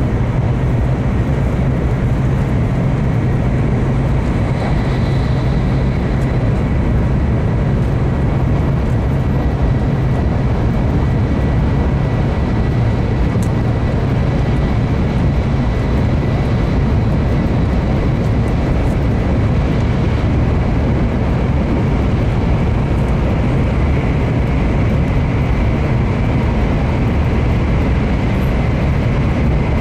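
N700-series Shinkansen heard from inside the passenger cabin while running at speed through a tunnel: a steady, loud low rumble of wheels, motors and air pressure.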